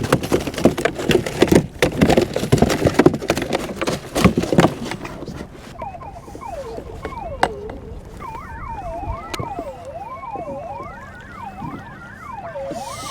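A quick run of clicks and knocks for about the first five seconds, a fish being handled in a kayak. Then several sirens wail together, their pitches sweeping up and down and overlapping.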